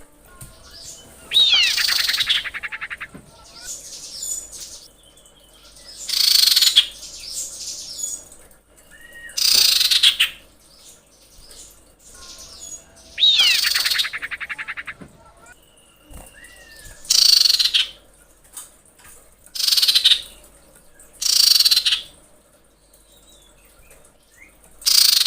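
Common iora, a female calling according to the uploader: about eight loud, high, rapid trilling calls, each about a second long, repeated every three to four seconds. Some open with a falling whistle.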